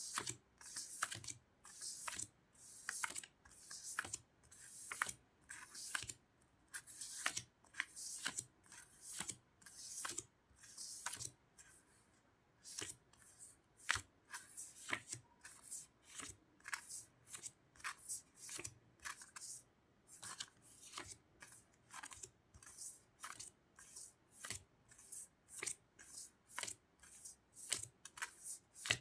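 Sticker sheets and their packaging handled one after another: repeated crinkly paper-and-plastic rustles with small taps, about one a second at first, then shorter and quicker about halfway through.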